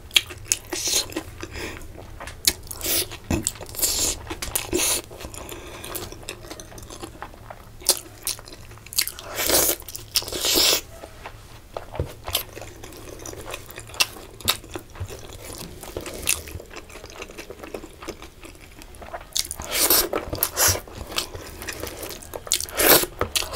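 Close-up eating sounds of someone eating fried fish and rice by hand: irregular wet chewing, biting and crunching, with clusters of louder mouth sounds about ten seconds in and again near twenty seconds.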